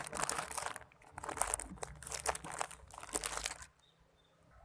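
Handling noise from squishy toys being picked up and moved about: a run of soft crinkling and rustling with small clicks, stopping about a second before the end.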